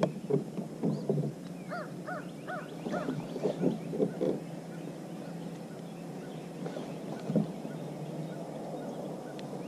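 A bird calling in a quick run of about four short calls, roughly two seconds in, among a scatter of light knocks.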